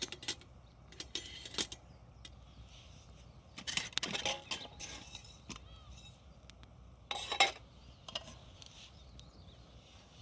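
Wood campfire crackling and popping, sharp snaps coming in irregular clusters over a low steady background. The loudest burst comes about seven seconds in.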